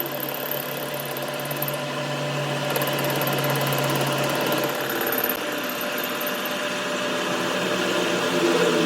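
A machine running steadily: a motor hum with several steady tones over mechanical noise, growing slightly louder toward the end.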